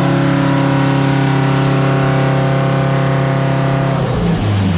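Turbocharged SR20DET four-cylinder engine of a Nissan S13 Silvia drift car running at a steady, held engine speed, one even note. About four seconds in the note drops away and the sound turns rougher and lower.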